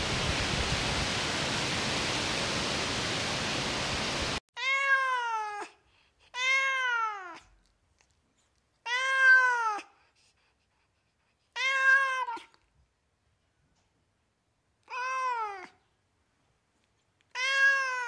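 A steady hiss of noise for about the first four seconds, which cuts off abruptly. Then a cat meows six times, each meow about a second long, rising then falling in pitch, with a couple of seconds between them.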